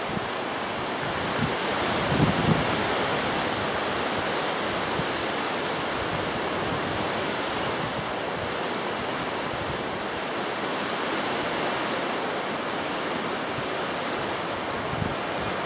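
Strong, gusty wind: a steady rushing noise, with low buffets on the microphone about two seconds in and again near the end.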